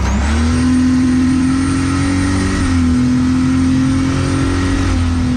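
Turbocharged Vortec 4200 inline-six engine under hard throttle, heard from inside the cabin. The engine note climbs quickly, then holds nearly steady with a thin high whine over it while the rear wheels spin. The slip-based traction control is pulling ignition timing to hold the slip in check.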